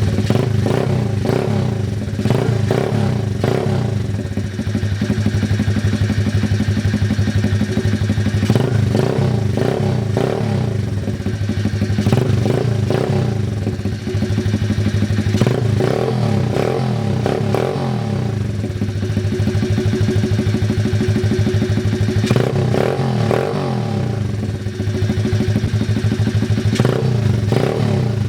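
Apollo 110cc pitbike's single-cylinder four-stroke engine running through a newly fitted slip-on muffler, idling and revved in repeated short blips every second or two.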